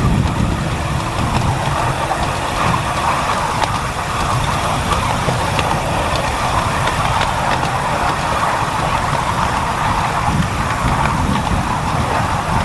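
Miniature railway train running on the track, a steady rumble with a few faint clicks.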